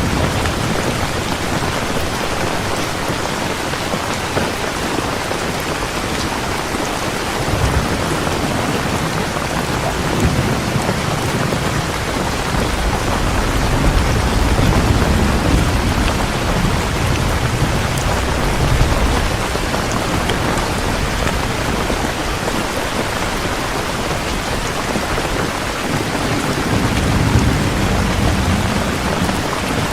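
Heavy rain falling steadily, with low rolls of thunder rumbling underneath that swell and fade several times.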